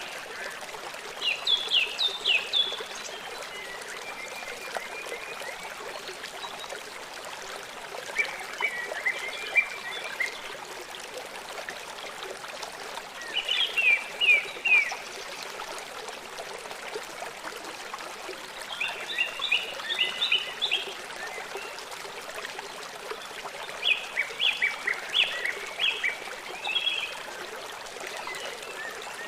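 A small songbird singing short phrases of quick, downward-sweeping chirps, about five phrases spaced several seconds apart, over a steady rush of running water.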